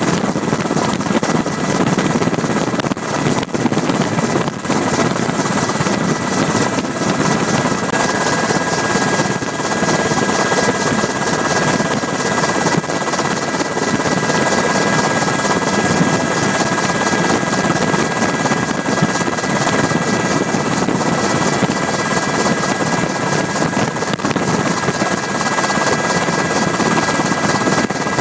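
Helicopter heard from on board: a loud, steady drone of rotor and engine with a couple of faint whining tones that holds the same level throughout.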